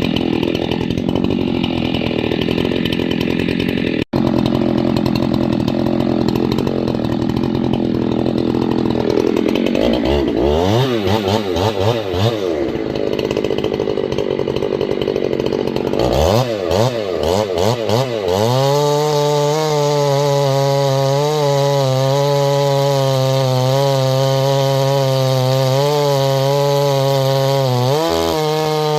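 Husqvarna 390 two-stroke chainsaw working through a log, rough and loud at first, then revving up and down twice before settling into a steady full-throttle run that wavers slightly in pitch and dips briefly near the end.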